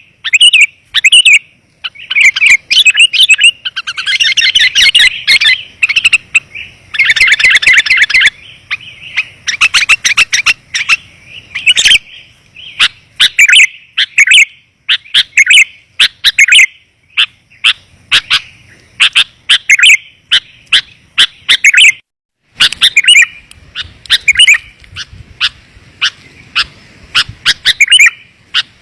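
Sooty-headed bulbul (kutilang) calls played as a bird-lure recording: loud, rapid chirps in quick succession, with bursts of fast trilling, meant to draw wild bulbuls in.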